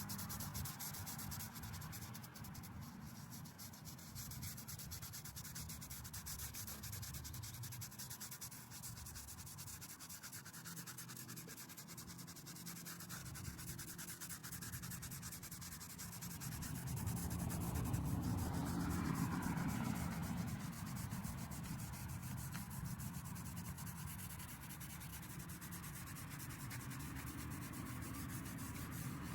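Steady scrubbing or rubbing on a headstone's stone surface, typical of brushing during headstone cleaning, louder for a few seconds about two-thirds of the way through.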